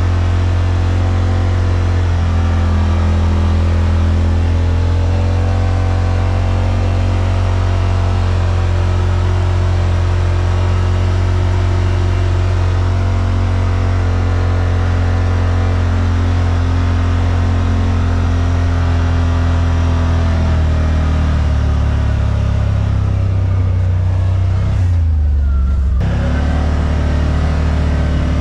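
Yamaha Rmax side-by-side engine running steadily under way. Its note falls briefly and picks up again near the end.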